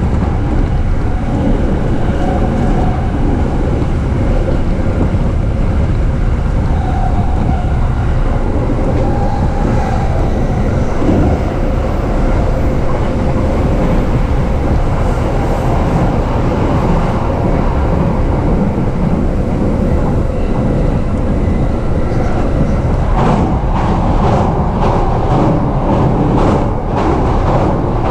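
JR East E233 series electric commuter train running at speed, heard from inside the passenger car as a steady rumble with a faint tone. Near the end comes a quick run of sharp knocks as the wheels cross rail joints or points.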